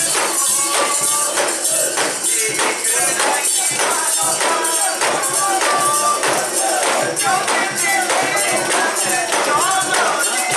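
Rhythmic metallic jingling, about two to three strokes a second, from the fittings of a portable shrine as it is carried, under a crowd of bearers' voices chanting and singing.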